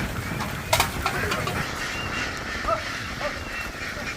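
A large flock of domestic ducks quacking together in a dense, continuous chatter over a low rumble, with one sharp knock about a second in.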